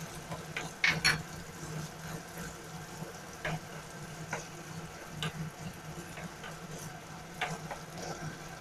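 Diced tofu and chopped red onion sizzling softly in oil in a nonstick wok while a spatula stirs them, with scattered short scrapes and taps of the spatula on the pan, the loudest about a second in.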